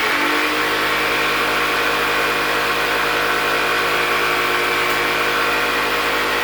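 Small electric power saw running at a steady speed with an even whine, cutting a wooden dowel rod off flush.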